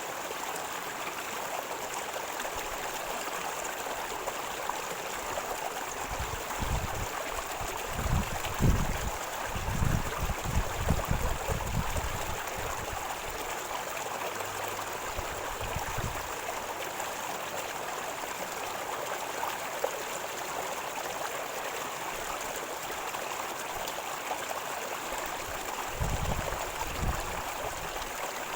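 River water flowing and gurgling over rocks in a steady rush, with irregular low thumps for several seconds in the middle and again near the end.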